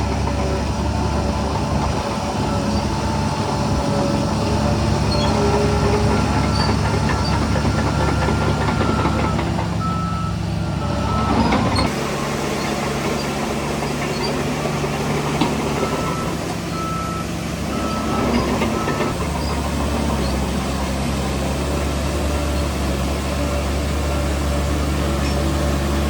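Heavy diesel engines of earthmoving machinery running steadily under load, with a high reversing alarm beeping in two spells, from about five seconds in and again about sixteen seconds in.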